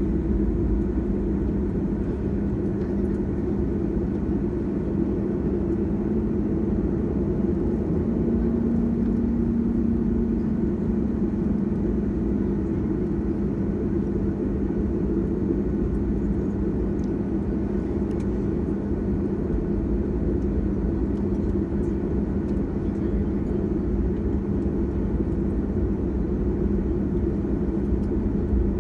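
Boeing 737-800 jet airliner, heard as a steady low engine drone and hum with no sudden changes.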